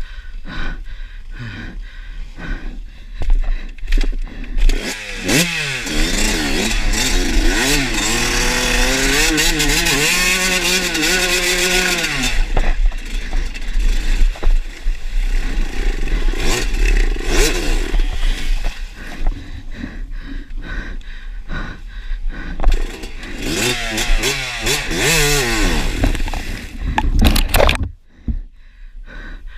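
Enduro dirt bike engine revving hard under load, its pitch swinging up and down again and again, with rough noisy stretches between the revs. The sound drops away abruptly near the end.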